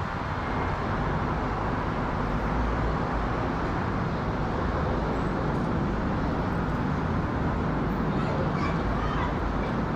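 Steady jet noise of a Boeing 777-300ER's two GE90-115B turbofans as the airliner passes overhead.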